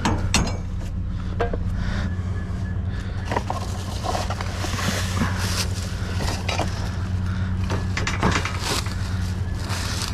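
Scattered clanks, knocks and scrapes of scrap metal and junk being handled and moved about in a dumpster, over a steady low hum.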